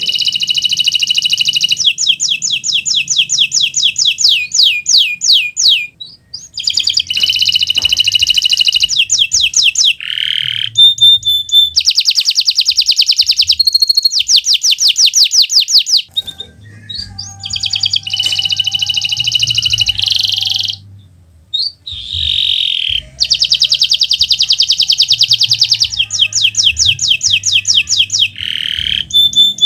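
Kenari Nusantara (Indonesian domestic canary) singing vigorously in long phrases of fast repeated trilled notes, with a few short pauses between phrases.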